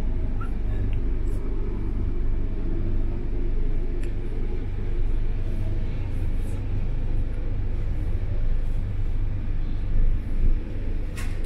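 Steady low rumble of a sleeper train running along the track, heard from inside the compartment, with a couple of louder knocks near the end.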